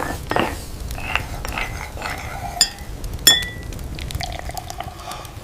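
Tableware clinking and clattering: a run of light knocks and chinks, with two sharp ringing clinks about two and a half and three and a quarter seconds in, over a steady low rumble.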